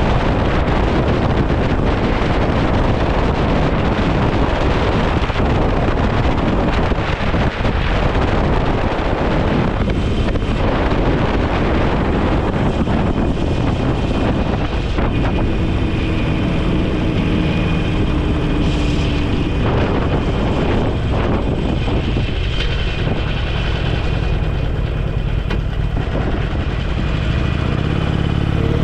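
Wind rushing over the microphone of a moving motorcycle, with the engine running underneath. About halfway through the wind noise eases and the engine note comes through more clearly. Right at the end the pitch starts to rise as the bike accelerates.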